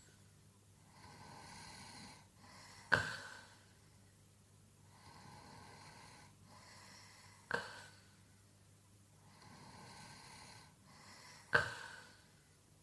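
A man snoring in his sleep: quiet, drawn-out breaths, each cycle ending in a sharp snort. Three snorts come about four seconds apart.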